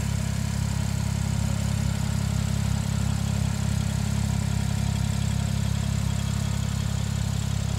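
2011 Porsche 911 Turbo S's 3.8-litre twin-turbo flat-six idling steadily, heard from behind the car at the exhaust tips.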